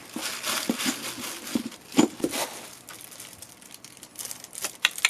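Crinkly packaging being handled and opened, with irregular crackling and a few sharp clicks, as small skateboard riser pads and mounting hardware are taken out.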